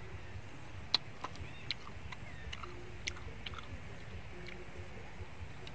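Chewing of steamed snail meat, with a scatter of small sharp clicks, the loudest about a second in, as snail shells are handled and the meat is picked out with a toothpick.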